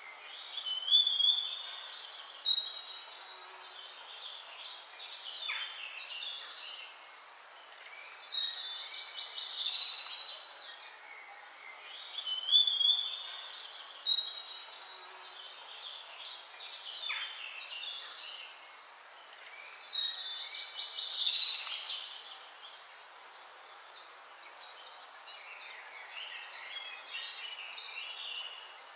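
A songbird singing short phrases of quick, high notes, each a second or two long, repeated every several seconds, with fainter chirps in between.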